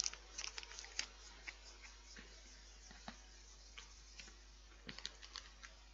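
Faint, irregular crunchy clicks as a milk chocolate sandwich biscuit bar is chewed, bunched in the first second and then scattered.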